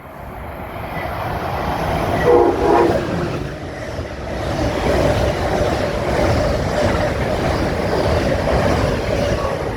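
MARC commuter train running through the station at speed without stopping, its rumble building and then holding steady, with a short horn blast about two and a half seconds in.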